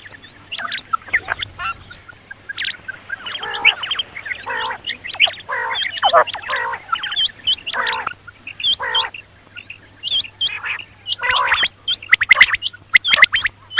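Quail calling: bursts of short, sharp repeated notes with brief pauses between them, over a faint steady low hum.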